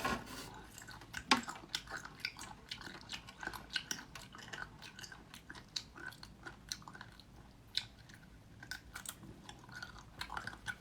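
A person chewing and biting food close to the microphone, with many short, irregular mouth clicks and smacks; the sharpest comes about a second in.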